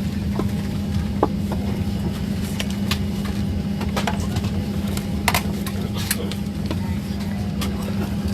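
Steady low drone inside a Boeing 737 airliner cabin, with scattered light clicks and knocks over it.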